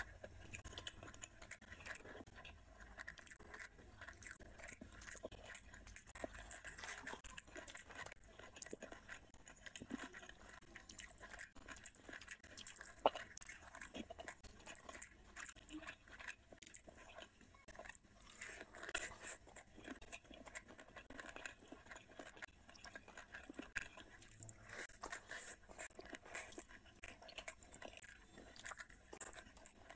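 A person chewing and smacking mouthfuls of rice and fish curry eaten by hand, with many short mouth clicks and smacks. One sharper click stands out about thirteen seconds in.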